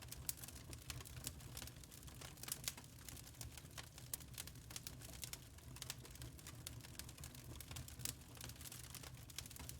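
Wood fire crackling, with many small irregular pops and snaps over a low rumble.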